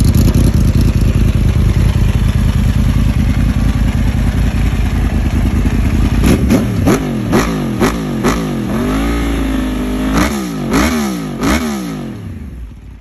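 Yamaha R1 crossplane inline-four running through an Akrapovic carbon exhaust: it runs steadily for about six seconds, then is revved in a quick series of about eight throttle blips, each rising and falling in pitch, with one longer held rev in the middle. The sound dies away near the end.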